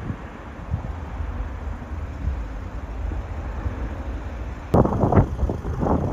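Wind rumbling on the microphone outdoors, with a sudden harder, gusty buffeting that starts with a click about three-quarters of the way in.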